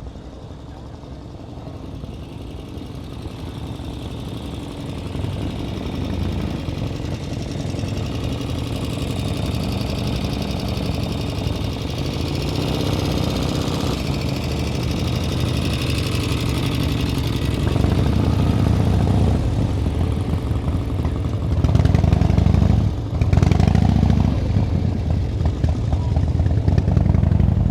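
A vehicle's engine running and growing steadily louder as it comes closer, with a few short revs near the end.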